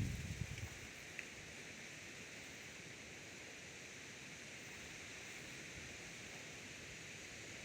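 Steady hiss of wind blowing, with a few low gusts buffeting the microphone in the first half second.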